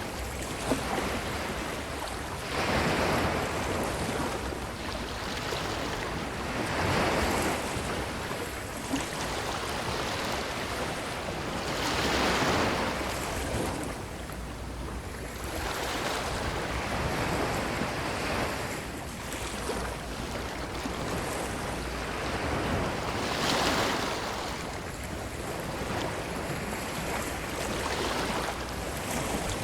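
Ocean waves washing onto a beach: the surf swells into a hiss every few seconds, over a steady low rumble.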